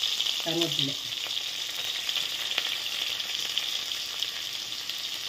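Sliced onions and curry leaves frying in hot oil in a pot: a steady sizzle.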